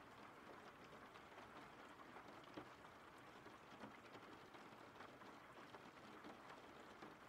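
Faint steady rain, an even hiss dotted with scattered ticks of individual drops.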